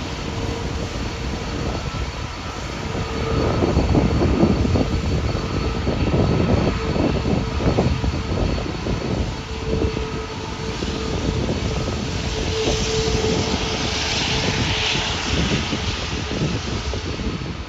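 Jet airliner engines rumbling and crackling, with a steady whine running through. A higher hiss swells over the last several seconds.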